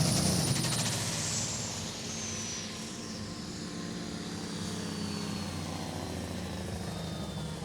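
Limited Superstock pulling tractor's engine running hard under load as it pulls the sledge away down the track. The sound fades over the first two seconds, and a high whine slowly falls in pitch throughout.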